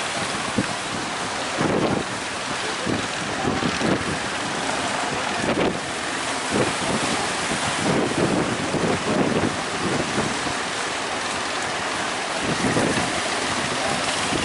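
Strong wind buffeting the microphone in irregular gusts, over a steady rush of sea surf.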